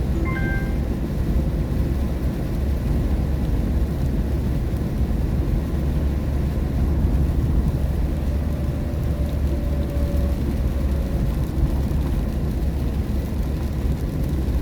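Steady low rumble of road and tyre noise inside a car cabin driving on a rain-wet highway.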